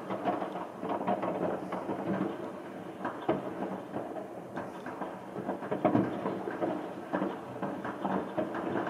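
Fireworks going off continuously: a dense, irregular run of bangs and crackles, with louder bangs about three and six seconds in.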